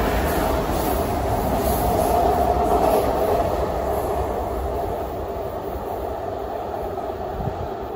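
An ICE 4 high-speed train runs through an underground station without stopping. The noise of its passing cars is loudest for the first three seconds, then fades steadily as the tail end goes off into the tunnel.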